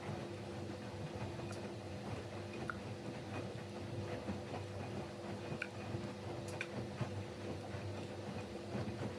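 Siemens Siwamat Plus 574 washing machine tumbling its drum during the fabric-softener rinse: a steady motor hum with the churning of wet laundry and water and scattered small clicks.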